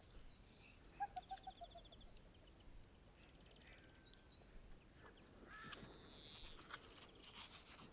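Faint wild birdsong over quiet outdoor background: a short run of falling notes about a second in, a few high trills, and a couple more calls a little after the middle.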